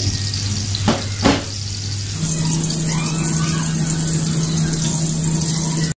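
Chapli kabab frying in ghee on a flat griddle pan: a steady sizzle, with two short clicks about a second in. About two seconds in the sound changes to a steadier hiss over a low hum.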